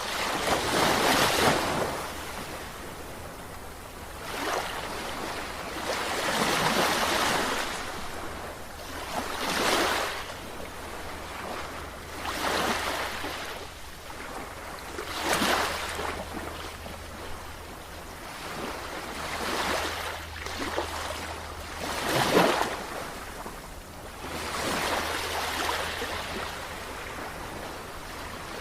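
Sea waves breaking and washing ashore in repeated surges, about one every two to four seconds, each swelling and then fading.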